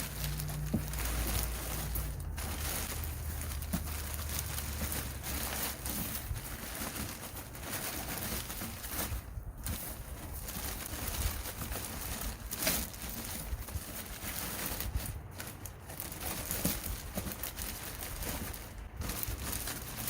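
Thick black plastic contractor garbage bag crinkling and rustling as it is stuffed into a box, with a low steady hum under it for the first few seconds.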